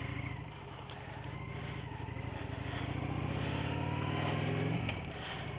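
An idling engine, with an engine note that climbs steadily in pitch and loudness for about four seconds and then drops back suddenly near the end, as when a vehicle accelerates away.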